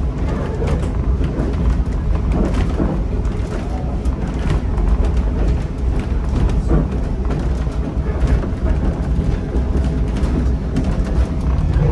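Steady low rumble of a steam-hauled passenger coach rolling along the track, with scattered clicks and knocks from the wheels and car body.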